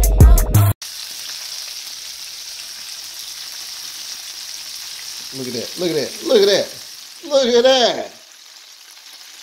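Breaded oyster mushroom pieces deep-frying in grapeseed oil, a steady hissing sizzle. Hip hop music cuts off abruptly about a second in, and a man's voice sounds briefly twice around the middle.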